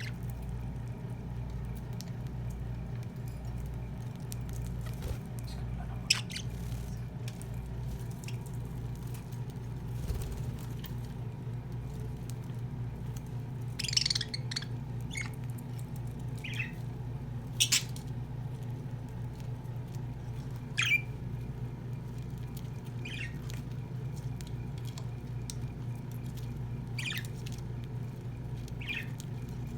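Budgerigars giving short, sharp chirps and clicks every few seconds over a steady low hum.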